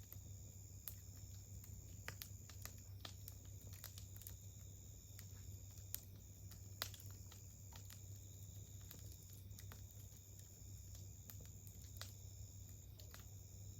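Campfire crackling: burning wood giving off small, irregular pops and snaps, with two louder pops a little past the middle.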